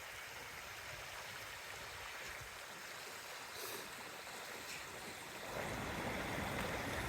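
Steady rushing of a fast-flowing river running high in flood, getting louder about five and a half seconds in.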